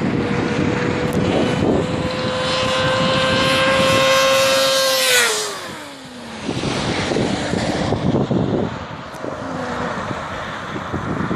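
Motorcycle engine held at high revs, its pitch creeping up, then dropping steeply about five seconds in as the revs fall away. Rough wind noise runs throughout and is stronger once the engine note has dropped.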